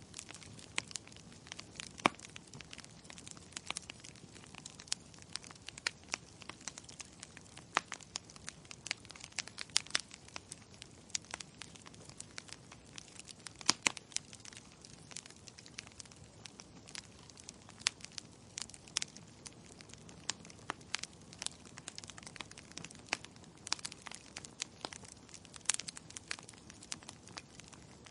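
Logs burning in a fireplace, crackling steadily with frequent irregular sharp pops over a soft hiss of flame.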